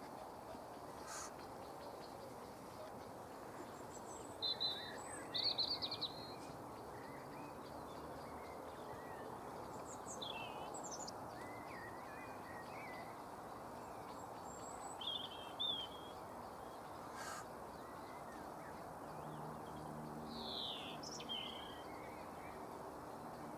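Short, high bird calls in small clusters about every five seconds, over a steady hiss.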